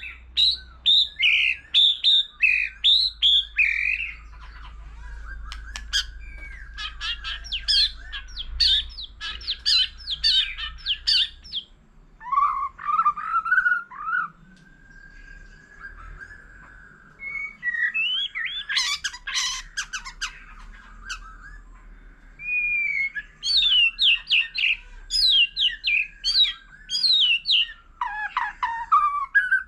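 White-rumped shama singing a varied song: loud, clear whistled phrases alternating with rapid runs of sharp chips, with a few short breaks and a quieter stretch in the middle.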